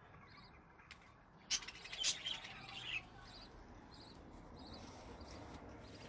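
Caged budgerigars and cockatiels chirping. A louder burst of quick, repeated chirps comes about a second and a half in and lasts about a second and a half.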